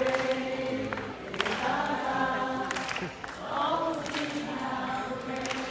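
A choir of voices singing long held notes over music, with a few sharp percussive hits.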